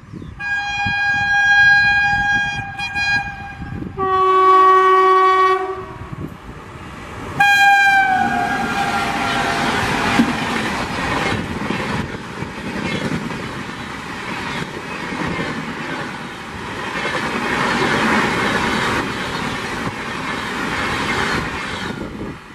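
An Indian Railways WAP-7 electric locomotive sounds its horn three times as it approaches at speed. The second blast is lower-pitched, and the third, short blast drops in pitch as the locomotive passes. Then comes the steady rush and wheel noise of the express coaches running through.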